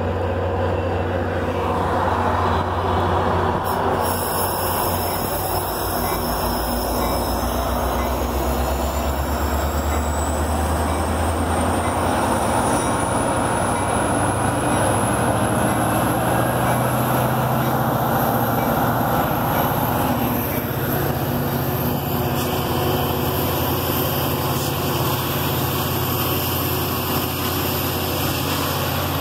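Metra bilevel commuter train and its diesel locomotive pulling out: a steady low rumble of engine and steel wheels on rail, with a high whine that rises from about four seconds in and then holds steady.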